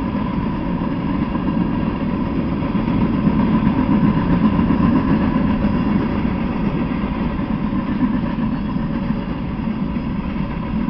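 Freight train cars rolling past on the rails: a steady rumble of wheels and car bodies, without a break, swelling slightly a few seconds in.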